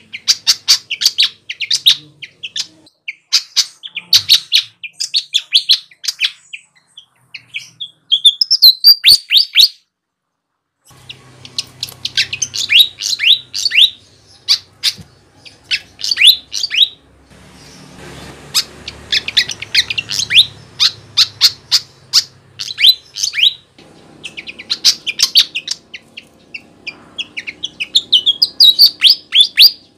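Flycatcher (sikatan) singing vigorously: rapid bursts of quick, high, downward-sliding chirps, in phrases of a second or two, with a short pause about ten seconds in. A faint low hum sits behind the song in the middle. It is a recorded song of the kind played as a lure for trapping wild birds.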